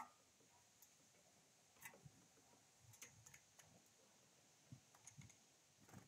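Faint, irregular clicks and taps, about a dozen spread over several seconds with the sharpest at the very start, from a great tit's feet and beak on a plastic feeding plate.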